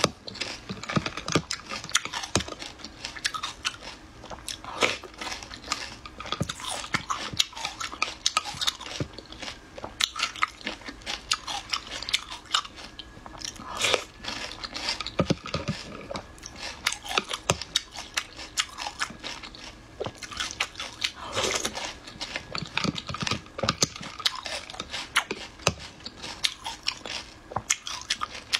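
Chewing and crunching a mouthful of mud snails (ni luo) eaten by the spoonful, a dense, irregular run of sharp crunching clicks.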